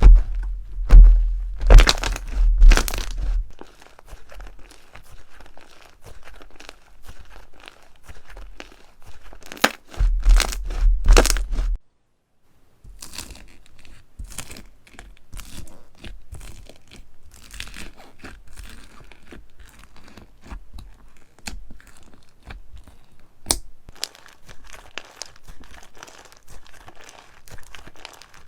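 Slime being squeezed and pressed by hand, making crackling, crinkling pops. There are loud crunchy bursts at the start and again about ten seconds in, then after a brief gap a quieter, steady run of small crackles.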